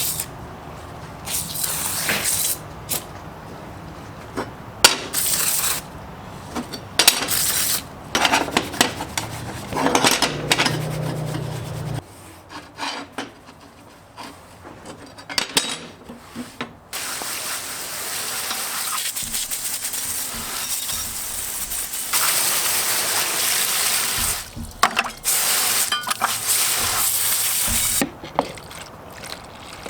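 Workshop sounds of an antique metal tool being restored: metal clinking and scraping in short bursts, then a steady hiss lasting about ten seconds from a little past the halfway point.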